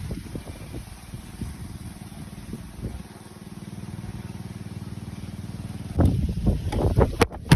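A motor running steadily under wind rumbling on the microphone, with loud gusts of wind buffeting the microphone near the end.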